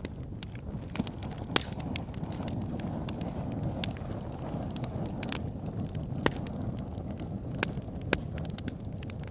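Wood fire in a fireplace burning with a steady low rumble of flames and frequent sharp crackles and pops, a few louder snaps standing out.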